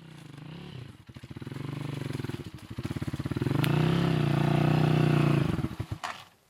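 Motorcycle engine running, growing louder and revving up and down, then stopping suddenly near the end.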